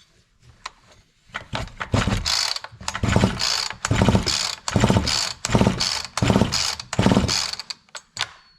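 Husqvarna 345 two-stroke chainsaw being pulled over on its recoil starter about eight times in quick succession, each pull a short whirring crank. The plug hole holds a compression gauge, so the engine cannot fire: this is a compression test.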